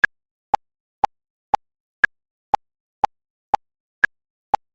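Quiz countdown timer sound effect: short clock-like ticks, two a second, with every fourth tick higher-pitched.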